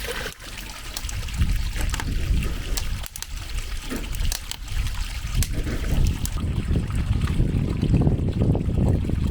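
Water trickling and splashing into an outdoor bath tub as a pump circulates it, over a steady low rumble with scattered small clicks.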